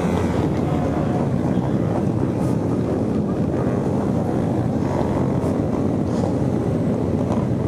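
Motorcycle engine running steadily under way, with wind buffeting a helmet-mounted microphone.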